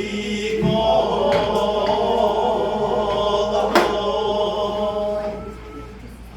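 Sijo-chang, Korean traditional sung poetry: a voice holding long, slow notes that waver in pitch and fade out near the end. A single sharp tap a little past the middle.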